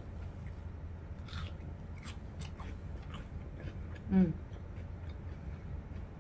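Close-miked chewing and wet mouth clicks of someone eating grilled chicken and vegetables, with a few crisp clicks. A little after four seconds in, a short squeak that falls sharply in pitch is the loudest sound.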